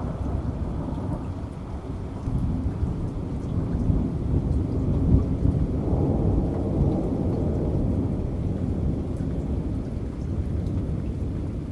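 Heavy rain with a long low rumble of thunder that swells a few seconds in and slowly eases toward the end, with faint scattered drop ticks above it.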